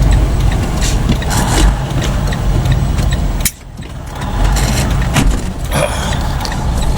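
A truck's engine runs, heard from inside the cab, with a deep steady rumble and scattered short clicks. The level drops suddenly for about half a second midway, then picks up again.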